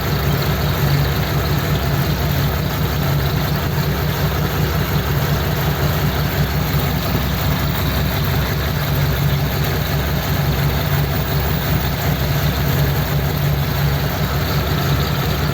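A car engine idling steadily with an even low hum.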